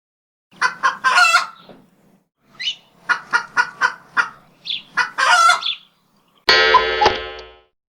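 Bird-like calls: two runs of short, rapid calls, then one longer buzzy call about a second long near the end.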